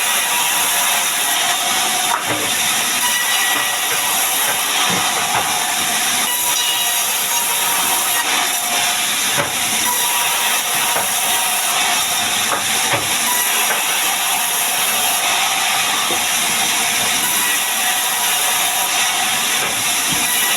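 Heavy rain falling, a steady dense hiss with a faint steady hum underneath.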